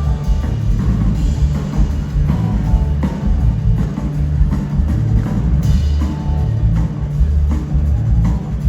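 Live rock band playing a drum-heavy passage, with pounding drums and bass under scattered guitar notes.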